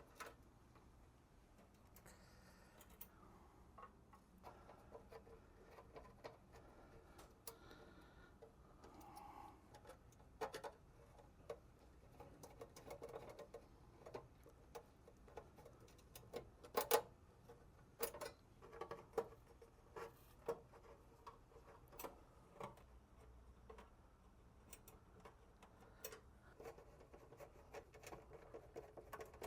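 Faint, scattered clicks and light scraping of a Phillips screwdriver working out the top-panel screws of an espresso machine, with one louder click about seventeen seconds in.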